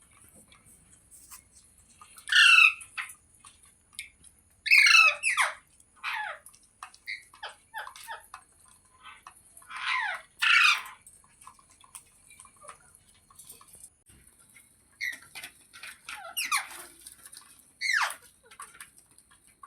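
Rose-ringed parakeet squawking: loud, harsh, falling screeches about 2.5, 5, 10.5 and 18 seconds in, with quieter short calls and chatter between them.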